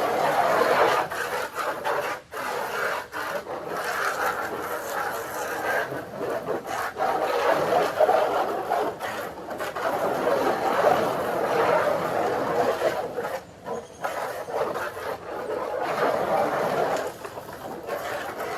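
Water pouring into a container that is filling up: a steady rushing splash that briefly dips twice.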